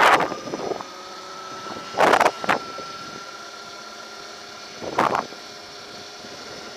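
Electric motor whine of a Throne SRPNT e-moto on the move, a steady high tone that rises slightly. Three short gusts of wind noise hit the microphone: at the start, about two seconds in, and about five seconds in.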